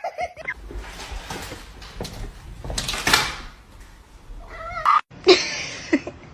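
A cat meowing: short calls near the start and again about four and a half seconds in, with a noisy stretch between.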